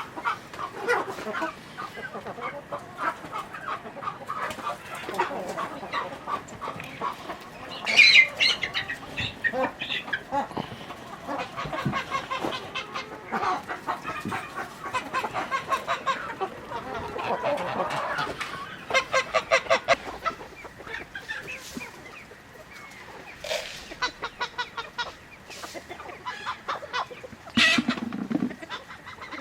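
A flock of chickens clucking, with rapid runs of clucks throughout and a louder, sharper call about eight seconds in and again near the end.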